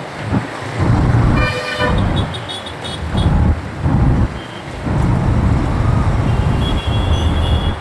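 Road traffic heard from a moving motorcycle, with a loud uneven low rumble throughout. A vehicle horn honks about a second and a half in, and another fainter horn sounds near the end.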